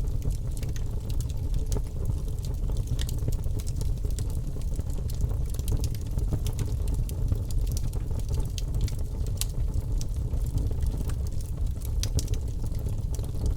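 Birchwood logs burning in a fireplace: a steady low rumble of flame, with many small, sharp crackles and pops from the burning wood.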